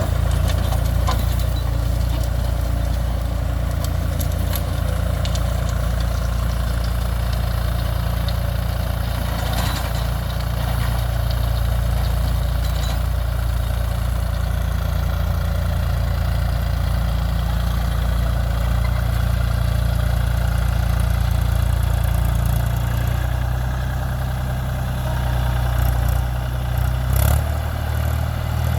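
Mahindra 275 DI TU tractor's diesel engine running steadily with a low, even drone, changing in pitch and level over the last few seconds.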